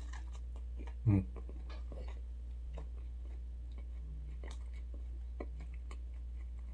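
Close-up chewing of a Philly cheesesteak sandwich on soft bread: faint, irregular wet mouth clicks. There is one short vocal sound about a second in, all over a steady low hum.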